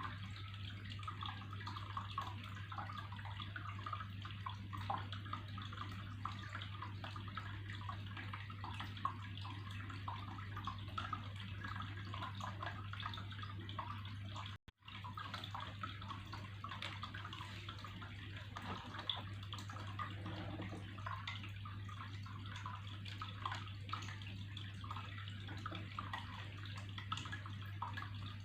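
Water trickling and splashing continuously, with small droplet patters over a steady low hum. The sound cuts out for a split second about halfway through.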